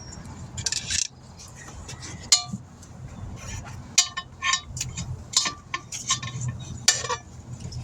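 Metal tools clinking and knocking against each other: a string of sharp, irregular clicks, some with a brief ringing tone, over a low steady background rumble.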